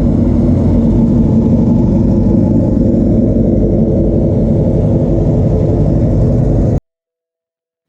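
A car engine running loud and steady with a deep rumble, cutting off abruptly near the end.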